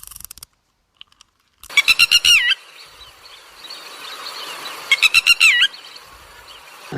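A bird calling twice, about three seconds apart: each call is a quick run of high chirps ending in a wavering whistle.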